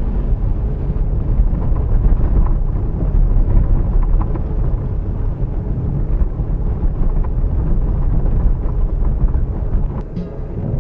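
Fiat Uno Mille EP driving, a loud steady low rumble of engine, tyres and wind buffeting the microphone, easing a little near the end.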